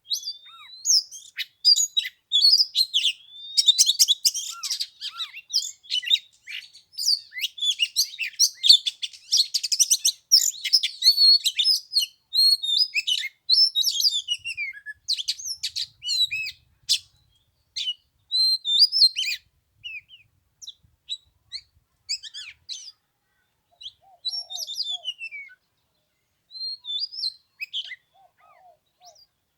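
Oriental magpie-robin singing: a rapid, varied run of whistles, trills and chirps, dense for the first dozen seconds and then breaking into shorter phrases with pauses.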